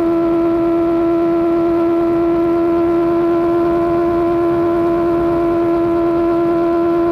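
Superbike engine through an AR GP1R aftermarket exhaust, held at constant revs: a steady, unchanging drone.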